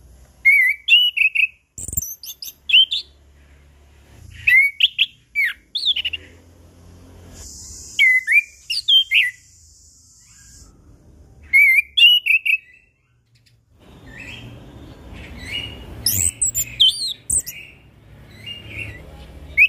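Orange-headed thrush singing in short bursts of clear, quickly sweeping whistled phrases with pauses between them. A steady high hiss sounds for about three seconds in the middle.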